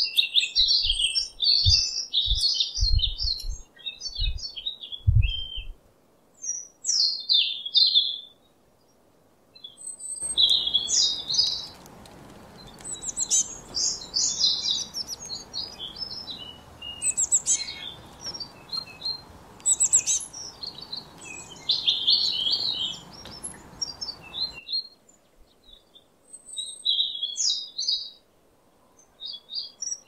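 Songbirds singing in many short, high, quick chirping phrases. A few low thumps sound in the first few seconds, and a faint background hiss comes in about ten seconds in and cuts off suddenly near twenty-five seconds.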